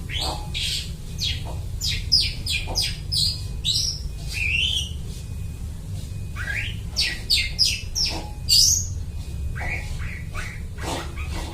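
Long-tailed shrike (cendet) singing in full voice: a fast, varied run of short harsh notes and quick sweeping calls, mimicking other birds' calls, over a steady low hum.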